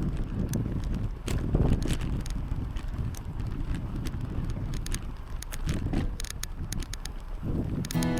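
Wind buffeting the microphone on a moving bicycle, a steady low rumble, with scattered sharp clicks and rattles from the bike.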